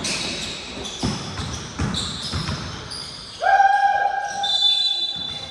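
Basketball bouncing on an indoor court, four bounces in the first two and a half seconds. About three and a half seconds in, a loud held tone lasts about a second, followed by a thinner high tone.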